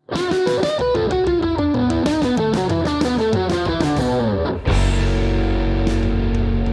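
Electric guitar fitted with Leosounds Fireball single-coil pickups, played through an amp: a quick run of single notes with bends and vibrato that steps downward, then a chord left ringing from about four and a half seconds in.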